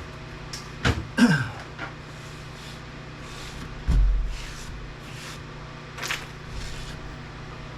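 Knocks, a scrape and a heavy thump about four seconds in as scrap parts and a stripped unit are handled on a workbench, over a steady low hum.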